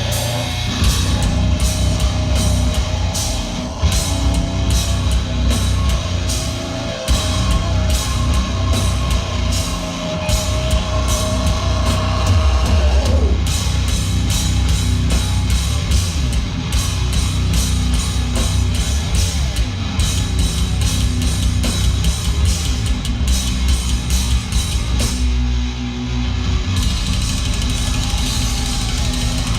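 Live heavy metal band playing loud, with rapid, dense drum-kit hits under distorted guitars. A long held high note runs through the first half and falls away about halfway through, and the band briefly thins out near the end before coming back in full.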